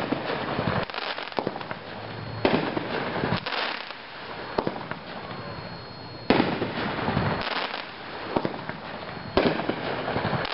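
A 7-shot consumer fireworks cake (Attack) firing outdoors. Sharp shot reports come every few seconds: one right at the start, then about 2.5, 6 and 9 seconds in. Each report is followed by a second or two of crackling bursts, with smaller pops in between.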